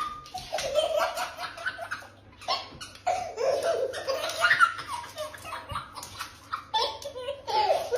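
Hearty human laughter in repeated bouts with short breaks between them.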